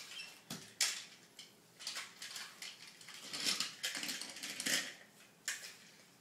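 Small hard toys being handled and knocked together: irregular clicks and short clattering rustles, the busiest stretch about three to five seconds in.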